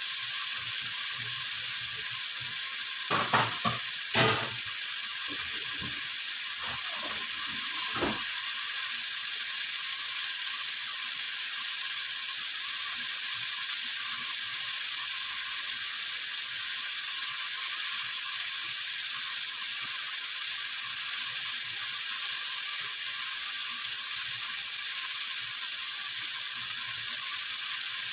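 Chicken pieces sizzling in hot oil in a pot as they are sautéed, a steady hiss. A few sharp knocks come about three to four seconds in and once more near eight seconds.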